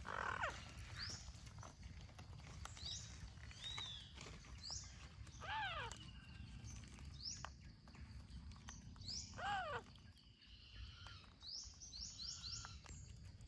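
Wild birds calling: many short high chirps that fall in pitch, with two longer arched calls a few seconds apart, over a low rumble of wind or handling noise.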